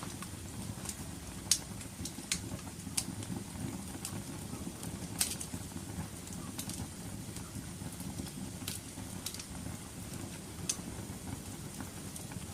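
Wood fire burning in a fireplace: a steady low rumble of flames with scattered sharp crackles and pops, about a dozen of them.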